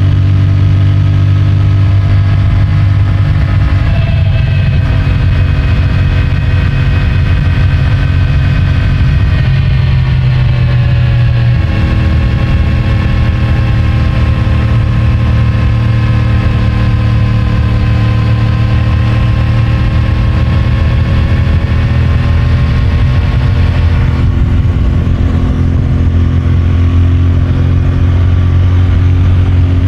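CFMOTO 450MT's 449 cc parallel-twin engine and stock exhaust running under way on the road, picked up by a microphone in the rider's pocket. The engine note changes pitch in steps several times, about 4, 10, 12 and 24 seconds in, and drifts slowly in between.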